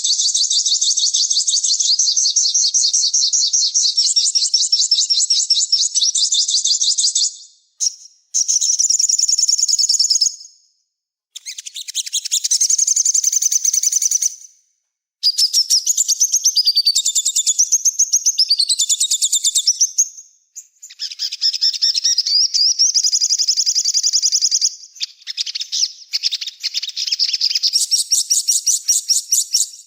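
A small songbird singing fast, high-pitched chattering trills in phrases several seconds long, separated by brief gaps.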